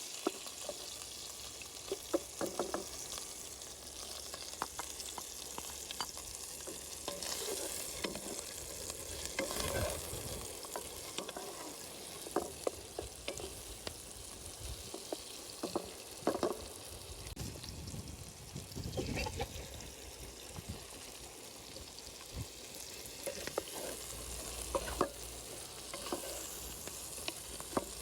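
Food sizzling as it fries in hot oil during the frying stage of Uzbek pilaf, with irregular knocks and scrapes of a utensil against the pot as it is stirred.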